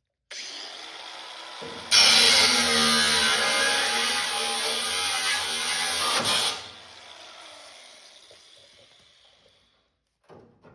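Handheld electric power tool starting up, running loudly and working for about four and a half seconds, then spinning down and fading out. Two short knocks come near the end.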